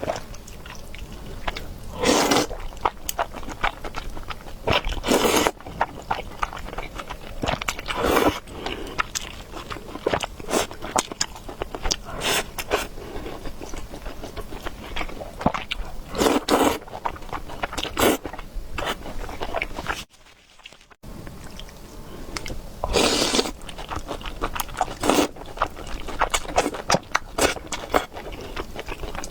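Close-miked mouth sounds of a person eating noodles and meatballs: steady wet chewing and biting clicks, with a louder burst every few seconds. The sound drops out for about a second past the middle.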